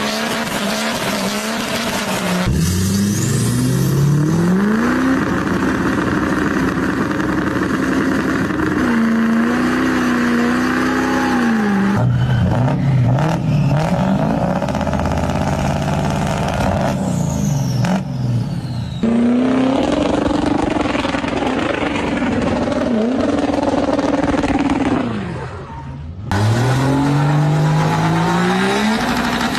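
Diesel truck engines revving and accelerating, the pitch climbing and falling, in a string of short clips cut abruptly one into the next.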